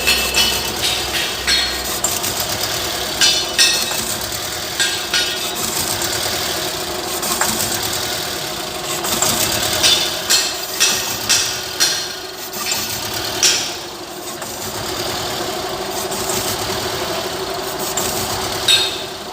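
Suzuki SX4 engine running steadily at idle, with irregular sharp clicks and knocks over it.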